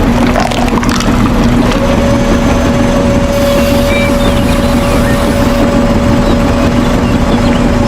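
Small electric motor of a DIY toy construction vehicle running steadily, with an even hum and a steady whine over it.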